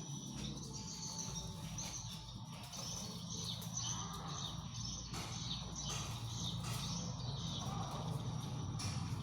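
Small birds chirping repeatedly, with short high calls throughout, over a steady low hum.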